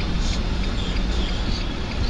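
Steady rumble of a car driving: engine and road noise.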